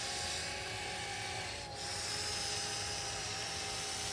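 Small electric motors of an RC excavator whining at a steady pitch while the machine works, with a brief drop a little under two seconds in.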